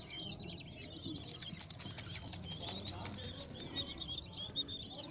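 A group of young chicks peeping continuously: many short, high chirps overlapping.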